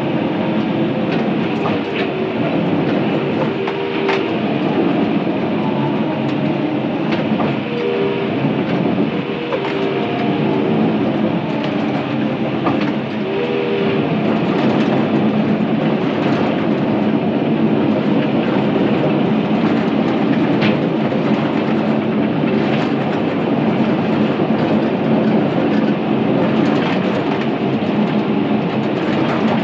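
Crawler dozer working under load: the diesel engine runs steadily and the tracks clank, with scattered sharp cracks over it.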